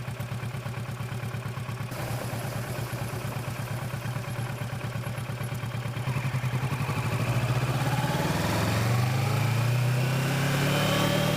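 Kawasaki Versys motorcycle engine running at a steady low speed, then revving up as the bike accelerates, its pitch climbing and getting louder from about seven seconds in.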